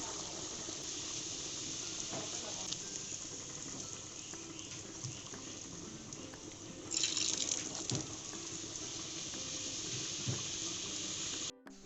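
Tap water running steadily into a sink, with a louder splash of water about seven seconds in. It cuts off abruptly near the end.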